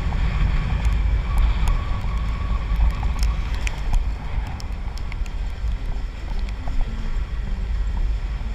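Wind buffeting a helmet-mounted action camera's microphone as a Honda Click 125i scooter is ridden, a heavy, ragged rumble over the faint running of its single-cylinder engine and the tyres. Scattered sharp ticks come through on top.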